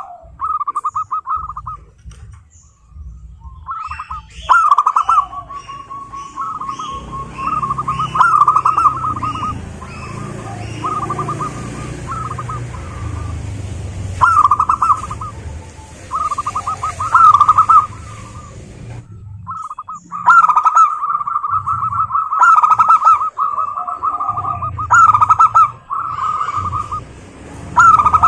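Zebra doves singing: repeated phrases of rapid staccato cooing notes, broken by two short pauses before the song picks up again.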